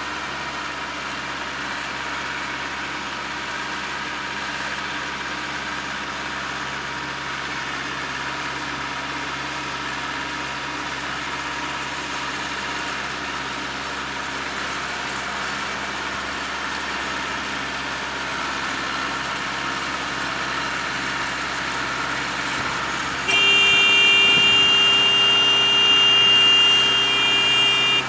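Baling machinery and its engine running steadily. About 23 seconds in, a loud, steady horn-like tone starts and is held for about five seconds.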